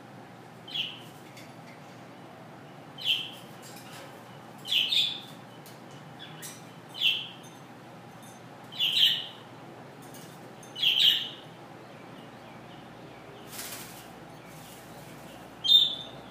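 Amazon parrot giving short, sharp, high calls, about seven of them roughly two seconds apart, some doubled: a pet parrot vocalising contentedly in the sun.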